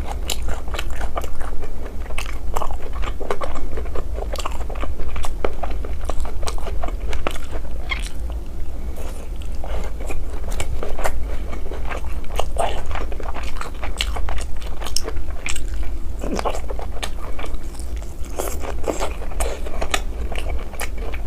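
Close-miked mukbang eating sounds: a person biting and chewing grilled meat skewers, with many irregular crunches, wet smacks and clicks. A steady low hum lies underneath.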